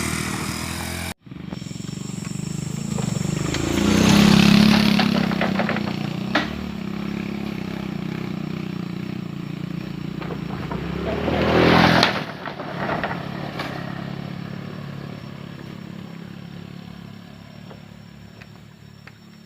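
Motorcycle engine running. It grows louder to a peak about four seconds in and again about twelve seconds in, then fades steadily away.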